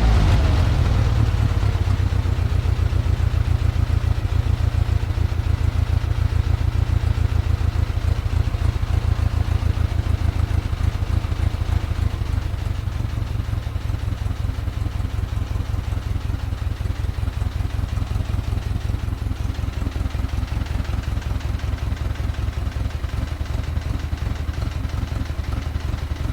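Rebuilt GAZ-MM four-cylinder side-valve (flathead) engine running on a stand at a steady idle, a little quieter from about halfway. One valve is tapping, which the mechanics take for a valve clearance that needs adjusting.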